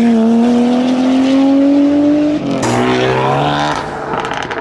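Four-door Nissan Skyline R34's engine accelerating hard, its note climbing through a gear. About two and a half seconds in the revs drop sharply at an upshift, then climb again before the sound fades as the car moves away.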